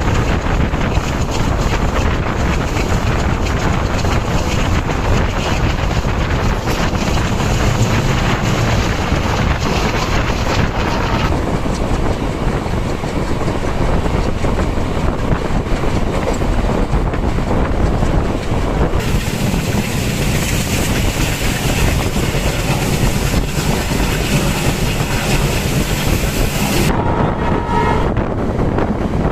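Diesel passenger train running along the track: a loud, steady rumble with wind rushing over the microphone, its tone changing abruptly a few times. Near the end a train horn starts to sound.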